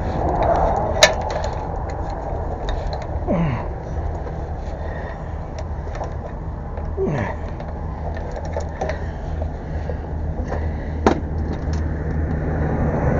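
Vehicle engine idling with a steady low hum, with a few sharp clicks and knocks and two short falling squeaks, as tie-down straps are worked on the load.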